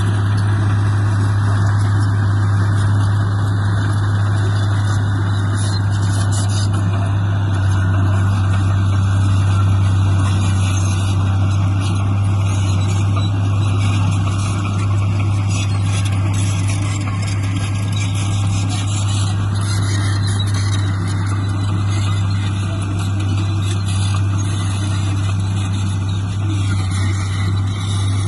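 Heavy diesel engine of earth-moving machinery running steadily, a loud low drone with little change in speed.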